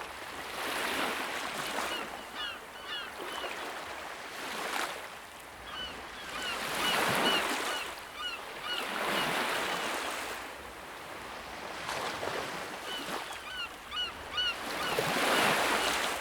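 Ocean surf breaking in repeated swells, with several clusters of short, high bird calls over it.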